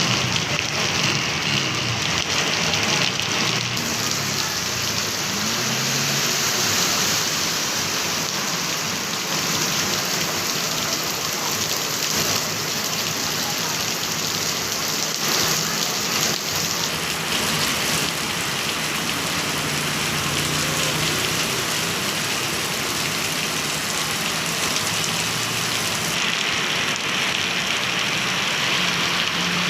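Heavy rain falling steadily, a dense even hiss, with a faint low hum coming and going underneath.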